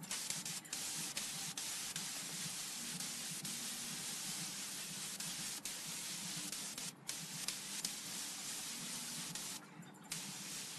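Compressed-air spray hissing steadily. It cuts off briefly about seven seconds in and again near the end.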